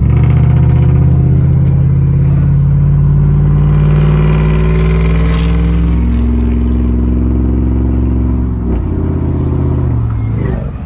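Loud exhaust of a 2005 Chevy Silverado's 5.3-litre V8, run with no catalytic converters through a single 3-inch Magnaflow Magnapack muffler, pulling under throttle on the road. About nine seconds in the throttle comes off: the exhaust drops back and its pitch falls.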